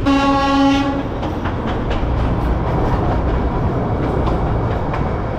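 The Darjeeling Himalayan Railway toy train's horn sounds one steady note for about a second, then the narrow-gauge coach rattles and its wheels click over the track as the train runs.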